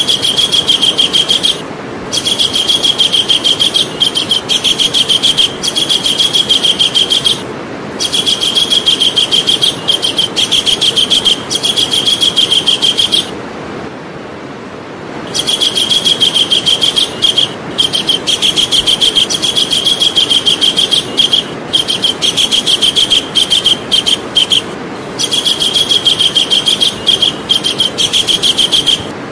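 Javan kingfisher calling: bouts of rapid repeated high notes, each bout lasting several seconds, with short breaks and one longer pause about halfway through, over a steady background hiss.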